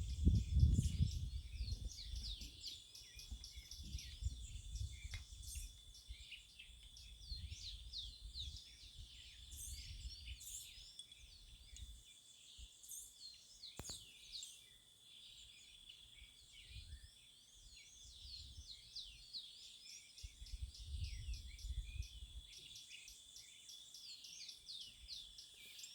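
A chorus of wild birds singing and chirping, many short overlapping calls and trills, over a steady high-pitched hum. A low rumble comes near the start and again about three quarters of the way in.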